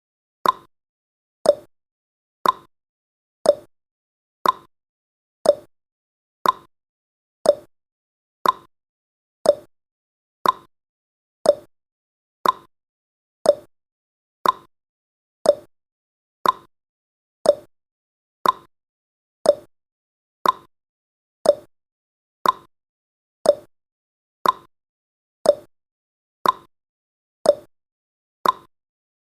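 Countdown timer's ticking sound effect: one short, sharp tick every second, alternating between a higher and a lower tick like a clock's tick-tock.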